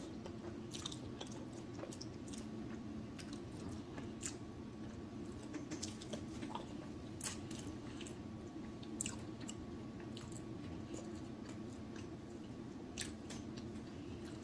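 Close-miked wet chewing, with irregular sharp lip-smacking clicks over a steady low background hum.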